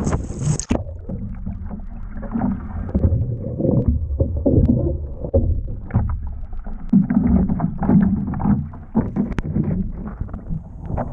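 Choppy sea water sloshing and splashing around a surf ski or kayak as it is paddled in rough water, with wind buffeting the microphone. Short irregular splashes come throughout, and a high hiss cuts off suddenly under a second in.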